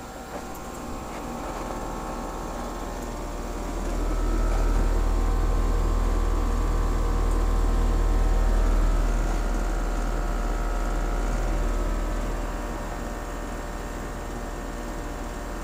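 Outdoor unit of a Bryant Evolution 5-ton two-stage heat pump running in heating mode, its compressor and fan humming steadily with a few held tones. A low rumble swells for several seconds in the middle, then eases. The coil is frosted over and the unit has not yet gone into defrost.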